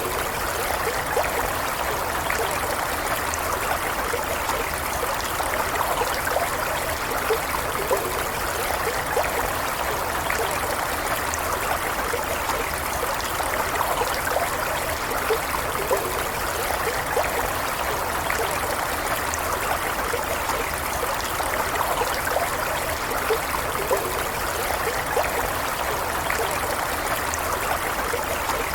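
A stream of running water flowing steadily, with a constant rushing sound and small trickling and bubbling splashes over it.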